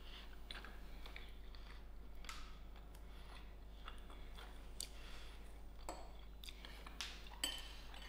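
Faint chewing of a mouthful of chicken curry, with scattered soft clicks and mouth sounds.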